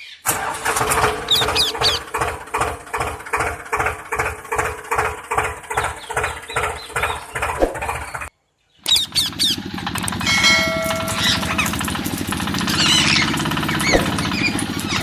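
A small machine running with a steady hum and a regular pulse, about three beats a second. About eight seconds in it cuts off briefly, then a denser, steadier running sound follows with a few high chirps over it.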